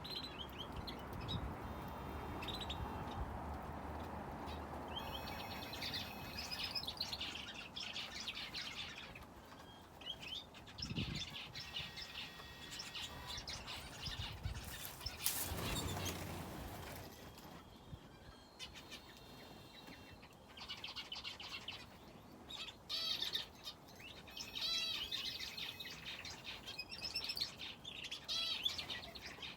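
Aviary finches and a canary chirping and calling, with many short tweets and some trilled phrases. There is a brief burst of rustling noise about halfway through.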